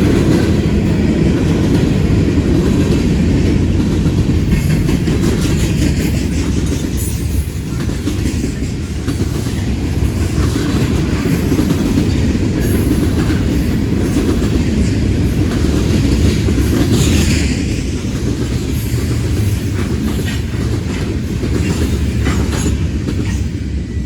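Freight cars of a long train rolling past on the rails: a steady heavy rumble with wheel clatter, and a few brief high-pitched wheel squeals, the clearest about 17 seconds in.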